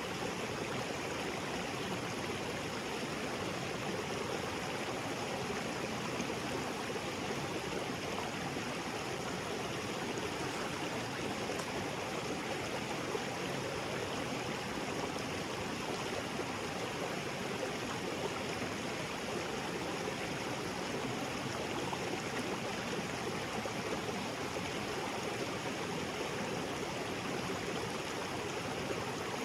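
Small waterfall and creek water flowing and splashing over rocks, a steady, even rush.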